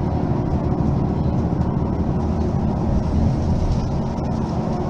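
Mercedes-Benz Citaro facelift city bus running, a steady low rumble of engine and drive with no breaks or sudden changes.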